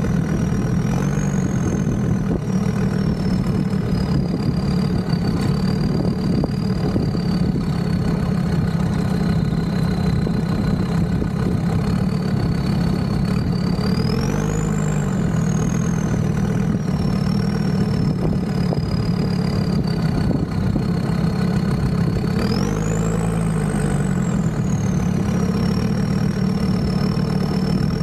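Land Rover Discovery 2's TD5 five-cylinder diesel engine running steadily under way, with a thin high whine above it. The revs pick up twice, about halfway through and again a few seconds before the end, and the whine rises with them.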